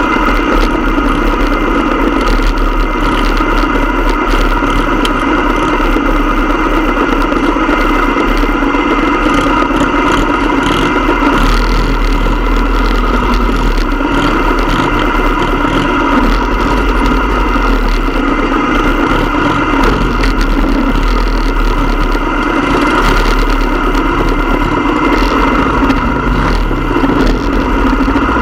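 Motorcycle engine running steadily, with no revving or change in pitch.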